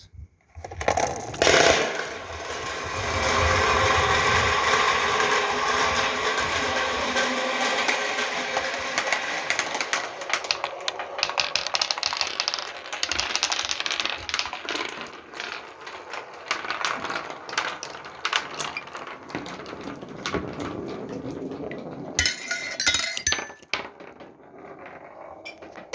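A pack of marbles released together and rolling down a wooden marble run: a dense, continuous rattle and clatter of many marbles on wood, starting with a loud clatter as they drop, then thinning to scattered clicks a few seconds before the end.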